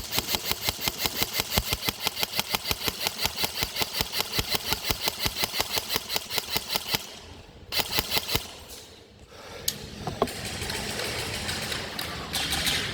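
Airsoft gun firing a long stream of rapid shots, about seven a second, for about seven seconds. A short second burst follows about a second later.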